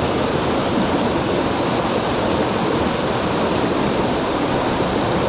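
Mountain stream rushing steadily over rocks: a loud, even water noise.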